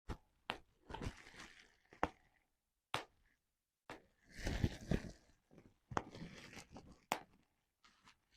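Bubble wrap being popped by hand: about seven sharp single pops at irregular intervals, with crinkling and crackling of the plastic sheet between them.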